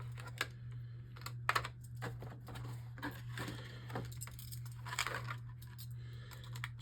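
Small plastic and metal Beyblade parts clicking and clinking as they are handled and set down, with light rustling of packaging, over a steady low hum.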